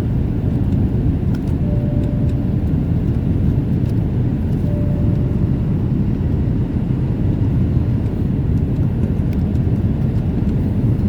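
Steady low rumble of jet engine and air noise inside the cabin of a Boeing 787 Dreamliner airliner, with two short faint tones about three seconds apart.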